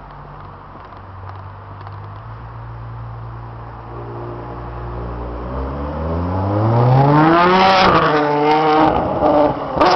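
Ferrari 599 GTO's V12 engine running at low revs as the car rolls off, then accelerating hard: the note rises steeply for about two seconds, drops at an upshift and climbs again, with a sharp crack near the end.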